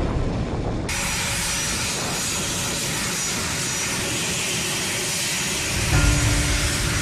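Jet aircraft engines running: a steady rushing hiss with a thin high whine, starting about a second in. Music comes back in near the end.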